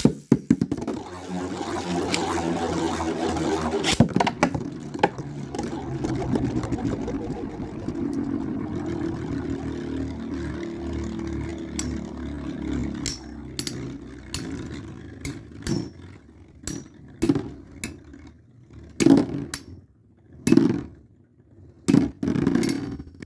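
Storm Pegasis 105RF and Dark Bull H145SD Beyblade tops spinning in a stadium after the launch, with a steady whir and rapid clattering as they strike each other. About halfway through the whir fades and the hits come sparser, with a few loud knocks near the end as the tops slow down.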